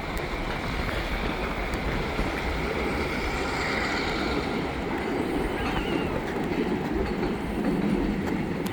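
EMD diesel road-switcher locomotives, a GP40-2W and a GP38-2, running steadily under load as they shove a cut of cars back, their exhausts smoking.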